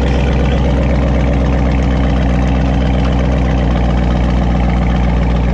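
Dodge Charger Daytona's Hemi V8 idling loud and steady through an exhaust with the mid mufflers deleted.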